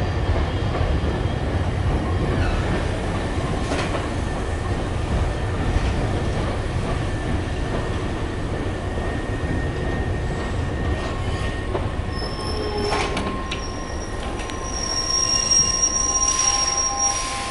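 Hankyu 8000 series electric train pulling into the platform with a steady low rumble and a thin whine. It slows to a stop with high squeals in the last few seconds.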